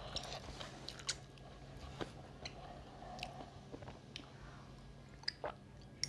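Mouth sounds of eating rice and fish curry: chewing with small wet clicks and lip smacks. Near the end come a few louder clicks as she drinks from a clay cup.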